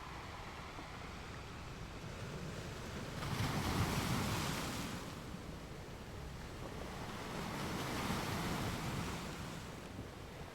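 Ocean surf: waves washing in, swelling twice, loudest about three to five seconds in and again around eight seconds.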